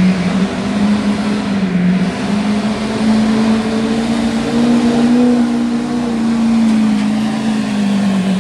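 Diesel pickup truck engine at full throttle under heavy load, pulling the sled down the track. Its pitch wavers in the first couple of seconds, then holds high and climbs slowly before dropping sharply at the very end as the throttle is let off.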